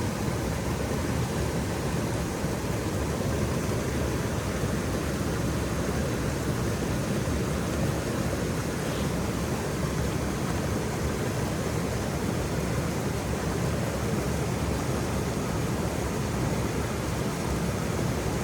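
Waterfall rushing steadily, a deep, even wash of falling water.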